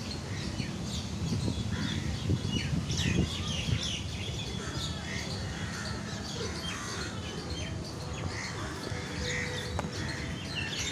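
Many birds chirping and calling at once, with short overlapping calls throughout, over a steady low rumble.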